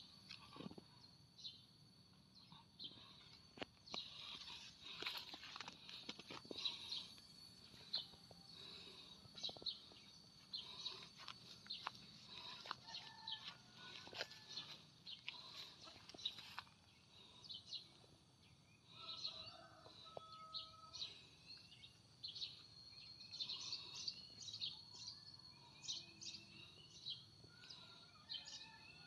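Faint birdsong: many short, high chirps and calls from birds, over a thin steady high tone.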